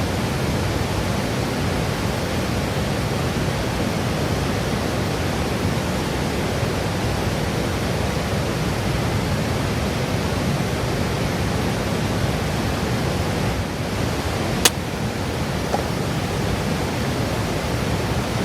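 A steady rushing noise throughout, with one sharp click near the end.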